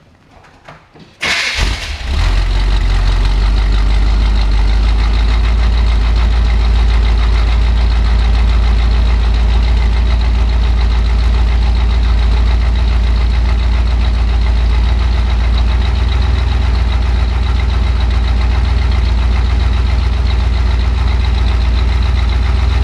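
A 1982 Chevrolet Corvette's 350 V8, fitted with a four-barrel carburetor, fires up about a second in, catching at once, and settles into a steady idle: it starts readily and runs smoothly.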